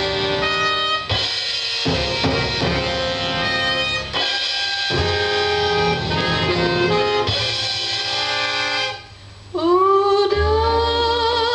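Music played from a vinyl record: a band with drums and held instrumental notes, which drops away briefly about nine seconds in. A voice then comes in with a sliding, wavering held note over bass and drums.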